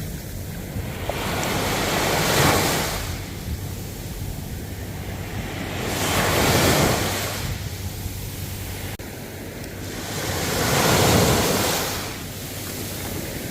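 Ocean waves breaking and washing in, three swells of surf about four to five seconds apart, with low rumble from wind on the microphone.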